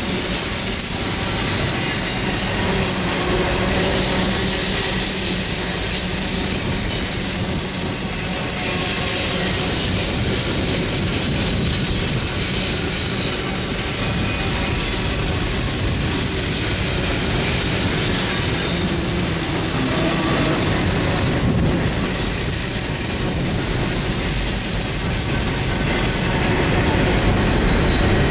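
CSX intermodal freight train rolling past with a steady rumble and clatter of wheels on rail, and high-pitched wheel squeals coming and going.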